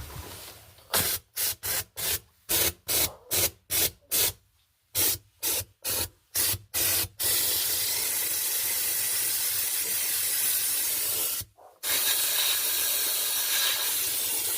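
Pressurised spray hissing from a nozzle, most likely blowing dust and pet hair out of a refrigerator: about sixteen short quick puffs, then a long steady blast that breaks off briefly near the end and starts again.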